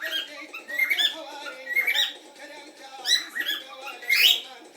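Cockatiel chirping and chattering: short, sharp rising chirps about once a second over a softer warbling chatter, with the loudest burst of chirps near the end.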